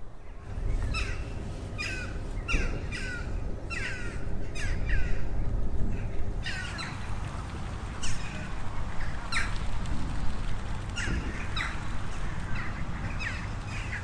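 Birds calling: many short, harsh calls, each falling in pitch, come in quick runs from about a second in, over a steady low rumble.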